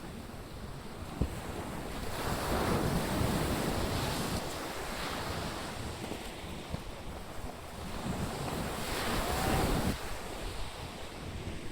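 Shore-break waves washing up and breaking on the beach, swelling louder twice, with wind buffeting the microphone.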